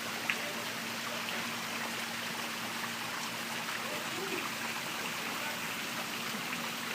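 Steady rain falling, an even hiss of rainfall and running water.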